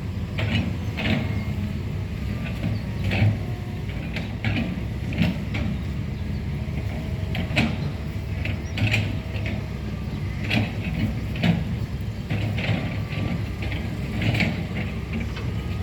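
Hydraulic excavator working: its diesel engine running steadily under a drone, with irregular metallic clanks and clicks from the bucket and arm.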